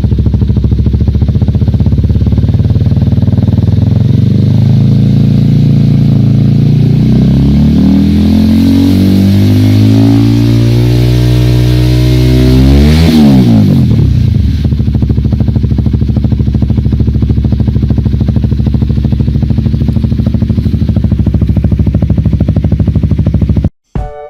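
Honda CBR150R single-cylinder engine breathing through a Yoshimura aftermarket exhaust. It idles, then is revved up slowly and steadily from about four seconds in to a peak just past halfway, drops sharply back to idle and idles steadily. The engine sound cuts off just before the end, when music starts.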